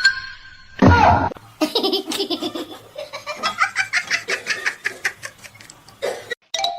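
A person laughing hard in a long run of quick, rhythmic bursts of about five a second, after a short loud outburst about a second in.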